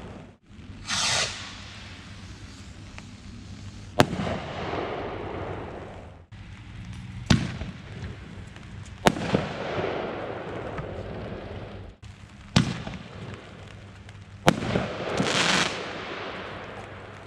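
Consumer New Year's fireworks going off: five sharp bangs a couple of seconds apart, each followed by a rumbling echo. A hissing burst comes about a second in and another near the end, and the sound drops out abruptly a few times.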